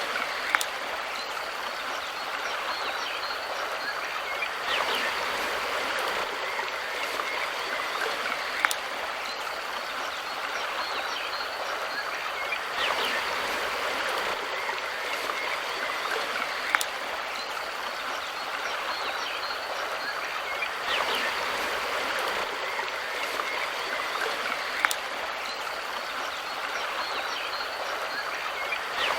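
Mountain river stream running steadily, a constant rushing of water, with a sharp click about every eight seconds.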